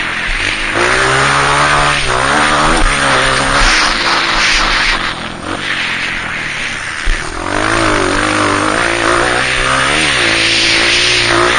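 Dirt bike's single-cylinder four-stroke engine being ridden hard, revving up and dropping back again and again as it runs through the gears, over a loud steady hiss. One short sharp knock about seven seconds in.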